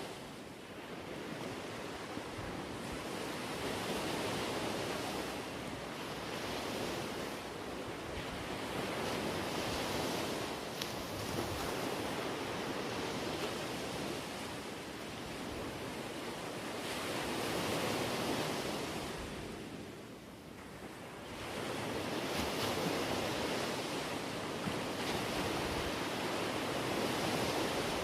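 Sea water washing and surging, swelling and easing every few seconds, with wind.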